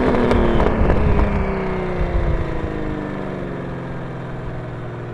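Toyota Supra MKIV's 2JZ-GTE twin-turbo straight-six through a Tomei full-titanium 4-inch cat-back exhaust. The exhaust note drops steadily in pitch and fades for about four seconds, then levels off to a lower steady tone.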